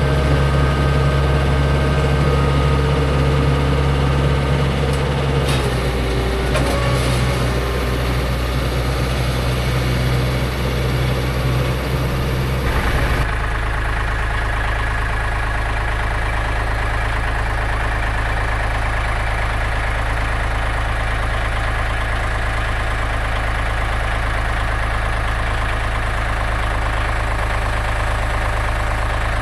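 Portable bandsaw mill's gasoline engine running steadily, its note shifting about 5 and 13 seconds in, then holding even.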